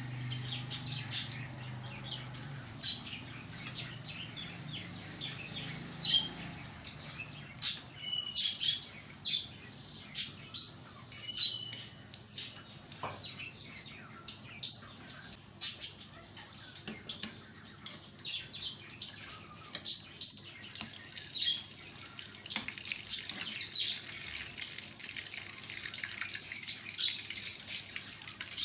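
Egg-dipped bread frying in hot oil in a nonstick pan: a steady sizzle with irregular sharp crackles and pops throughout.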